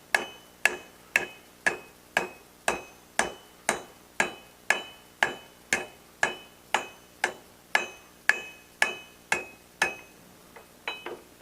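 Hammer blows on a steel disc being dished into a cup, about two strikes a second in a steady rhythm, each with a bright metallic ring. The blows stop about ten seconds in, followed by a few lighter taps.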